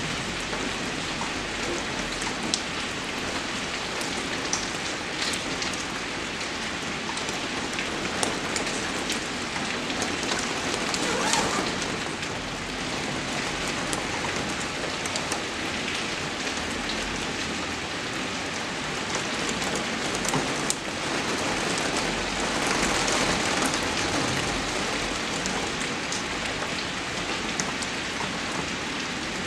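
Steady rainfall: a dense, even hiss of rain with many sharp individual drop hits scattered through it, swelling slightly a couple of times.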